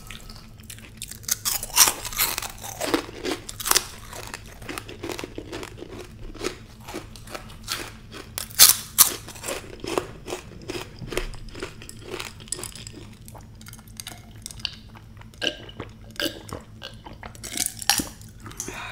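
Close-up crunching and chewing of crisp fried papad: irregular sharp crackling bites with chewing in between.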